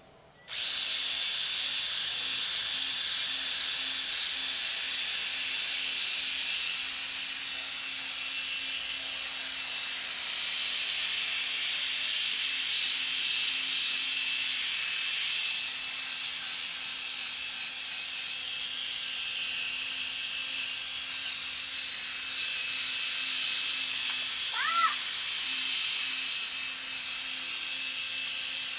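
Electric drill running steadily, spinning a wet P3000 sanding disc against a plastic headlight lens: a high hiss over a steady low motor tone, starting abruptly about half a second in. A short squeak near the end.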